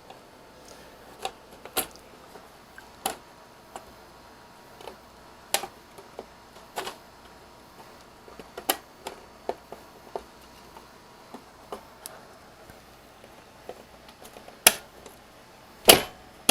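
Irregular clicks, taps and knocks of hard parts being handled and fitted as a 3D printer is put back together, with two louder knocks near the end.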